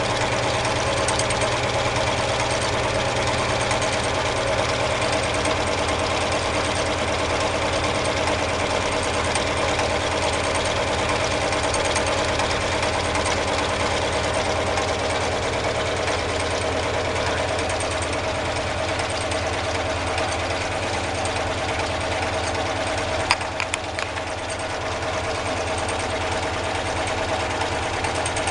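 Homemade four-cylinder double-acting alpha Stirling engine running steadily, with a fine, even mechanical rhythm. A few sharp clicks come about three quarters of the way through.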